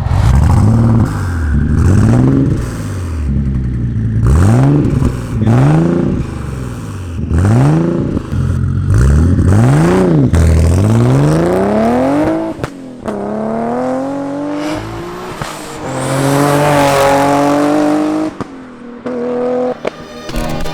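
Twin-turbo Nissan 370Z's V6 engine with a 3-inch cat-back exhaust being revved repeatedly, each rev rising and falling quickly about every second and a half. After that it runs more steadily, with one more climb in revs near the end.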